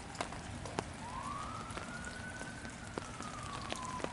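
Heavy rain falling steadily, with single drops striking close by as sharp ticks. A distant siren wails through it once, rising in pitch and then slowly falling.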